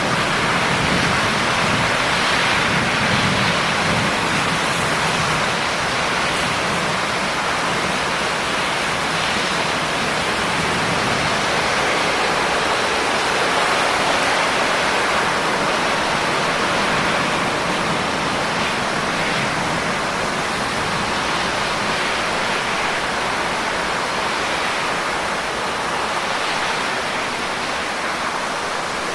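Steady rainfall, a dense even hiss of rain with no single drops standing out.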